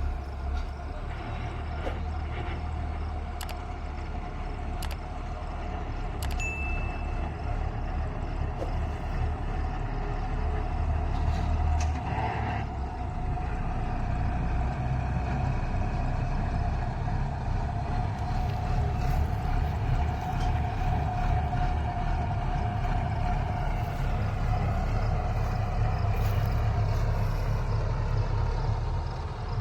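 Combine harvester running steadily, a low engine rumble with a constant whine from the machinery on top, growing a little louder about halfway through.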